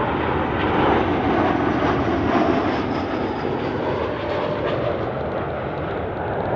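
Airbus A321 jet airliner coming in to land, its engines giving a loud, steady rushing noise that slowly eases off.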